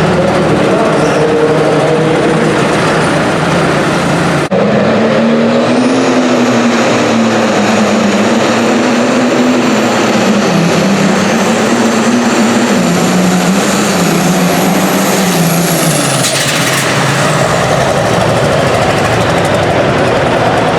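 Turbocharged diesel engine of a light-limited super stock pulling tractor at full throttle under load, with a high turbo whine held over the engine note, whose pitch wavers up and down as it pulls. About three quarters of the way through, the whine and the engine note drop away together as the throttle comes off, leaving a broad rumble.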